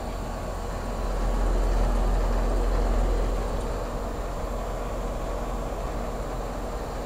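York Stellar Plus 3.5-ton heat pump outdoor unit running in cooling mode: a steady low hum with a rushing noise over it, swelling for a couple of seconds near the start.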